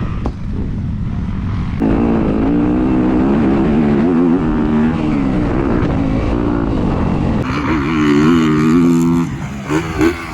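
Motocross dirt bike engine revving up and down while riding the track. Its note wavers in pitch, coming in strongly about two seconds in and dropping away near the end, over a steady low rumble.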